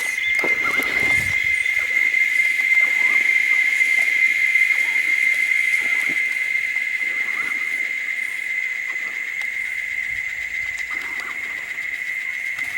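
Insects droning in one steady, unbroken high-pitched buzz.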